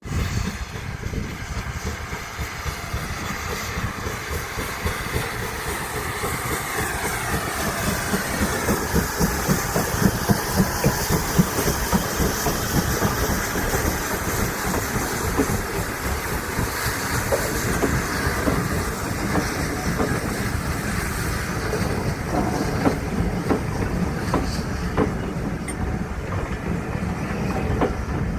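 Steam train hauled by locomotive 5239 Goliath running along the line, its wheels clattering over the rail joints in a steady run of clicks over a continuous rumble.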